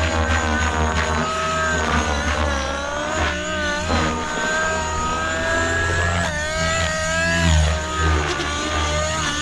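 Nitro RC helicopter (XLPower Nimbus 550 Nitro, 50-class glow engine with tuned pipe) in flight. The engine and rotor note rises and falls in pitch with the manoeuvres.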